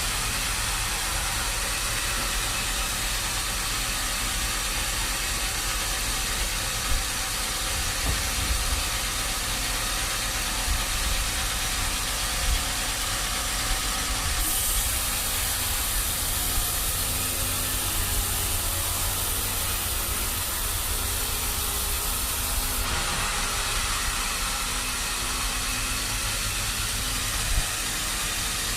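Sawmill machinery running steadily: a constant hiss over a low engine hum, with a few light knocks. A brighter, higher hiss comes in about halfway through and stops about eight seconds later.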